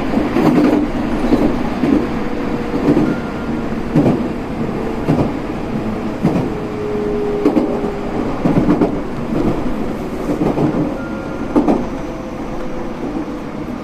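Cabin running noise of a JR 313 series electric train: a steady rumble with the wheels clicking over rail joints about once a second, and a faint whine that shifts slowly in pitch.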